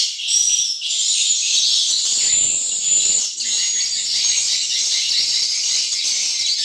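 Swiftlets twittering in a dense, continuous, high-pitched chorus of overlapping chirps, with faint handling rustle about two to three seconds in.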